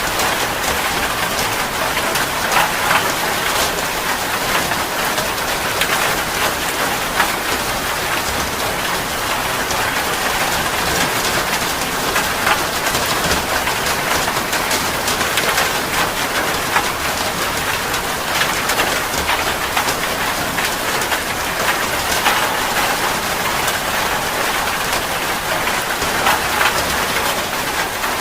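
Heavy rain falling steadily, a dense hiss of rain with many individual drops pattering on a surface.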